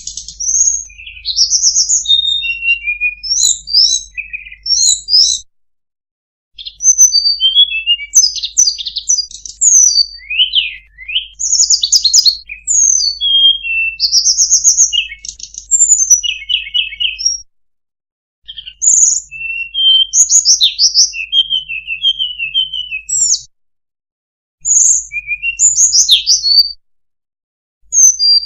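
Hill blue flycatcher (sulingan/tledekan) song played as a lure call: quick, varied high whistled phrases, slurred notes and short trills, in bouts broken by a few brief silences.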